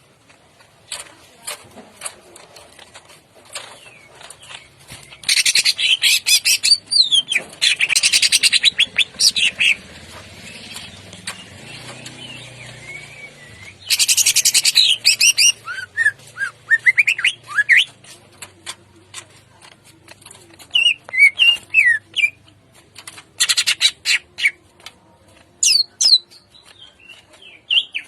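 Green leafbird (cucak ijo) singing: four loud bursts of rapid, harsh chattering notes, each lasting one to two seconds, with shorter sweeping whistled notes between them.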